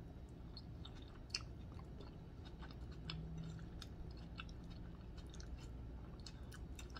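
Close-miked chewing of a mouthful of spaghetti in meat sauce: faint, scattered wet clicks and smacks of the mouth.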